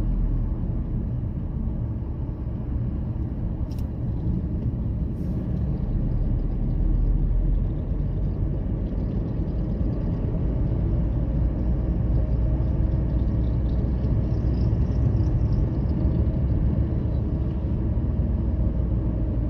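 Car travelling at motorway speed: a steady low rumble of road and engine noise, with two brief sharp clicks about four and five seconds in.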